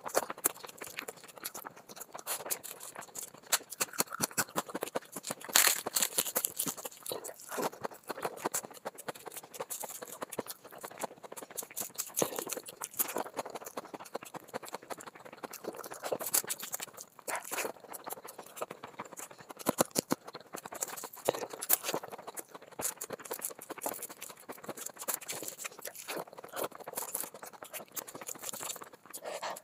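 Close-miked eating sounds: wet chewing and mouth smacking on handfuls of chicken biryani, with many quick irregular clicks and crackles.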